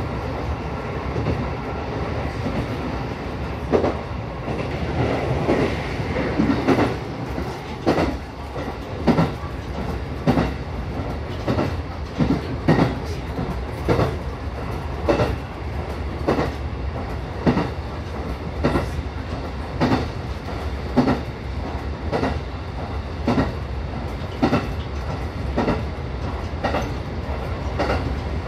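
Local electric train running steadily, heard from inside the car: a continuous rumble with the clickety-clack of the wheels over rail joints about once a second.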